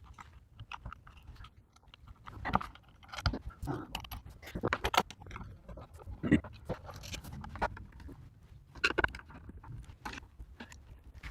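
Irregular clicks, knocks and scrapes of a router and its plexiglass mounting plate being handled and fitted back together.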